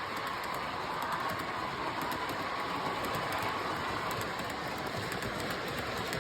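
MTH O-gauge model diesel locomotive (CSX AC6000) running along the layout track: a steady rolling rumble of the train with fine irregular clicking from the wheels on the rails.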